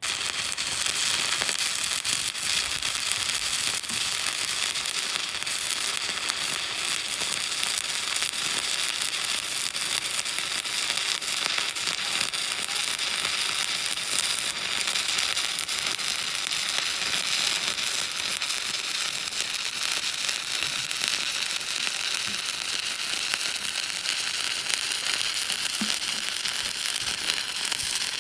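Electric welding arc struck and then crackling and sizzling steadily as a weld bead is run.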